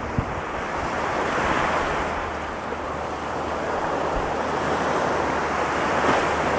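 Ocean surf breaking and washing up a sandy beach, a steady rush of water that swells twice, loudest near the end, with some wind buffeting the microphone.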